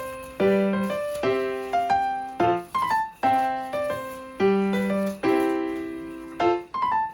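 Background piano music: a gentle phrase of struck notes that fade away, repeating.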